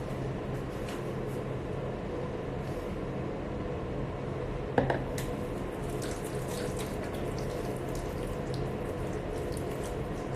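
Water running steadily from a tap into a sink, with a few faint ticks and a brief louder sound about five seconds in.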